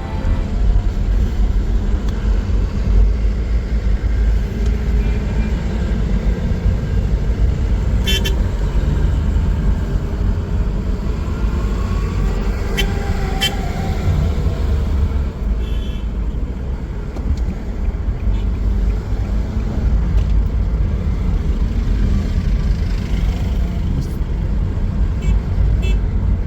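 City street traffic with car horns tooting briefly a few times, about a third of the way in and again around the middle, over a heavy, steady low rumble of wind buffeting the microphone.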